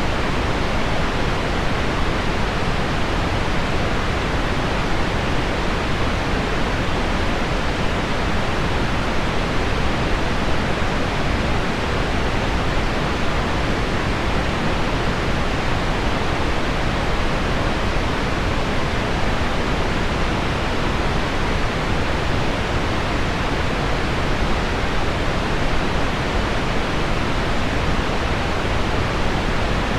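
Steady pink noise layered with heavy rain on window glass: an even, unbroken hiss, full in the low end and softer in the highs, with no pauses or separate drops standing out.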